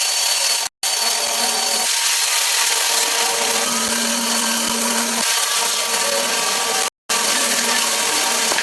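A power tool working wood, giving a steady, loud, hissing noise. It breaks off for two brief moments of silence, just under a second in and about seven seconds in.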